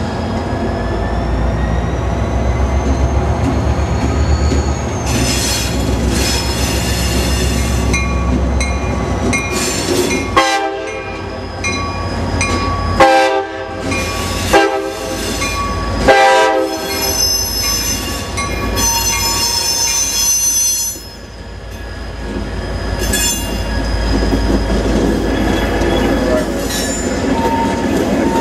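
A train going by: a diesel locomotive's engine rumbles, its horn sounds four blasts in the middle, then the wheels squeal with high, ringing tones.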